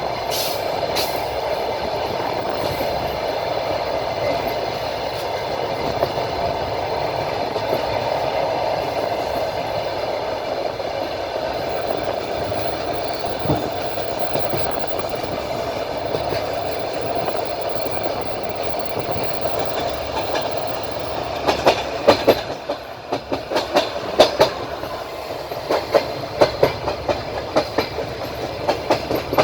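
Train wheels running on the rails, heard from a passenger car at the window: a steady rumble and rail hiss. About two-thirds of the way through, the clatter of wheels over rail joints sets in as sharp knocks in quick groups.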